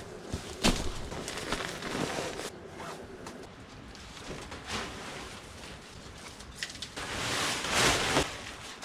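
Rustling and handling noise with several sharp clicks, the loudest near the start, and a longer, louder swishing stretch about seven seconds in.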